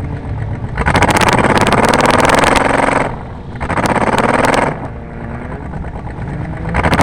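Car engine rumbling low, then revving hard twice, with rattling clatter over the top, and starting to rev again near the end.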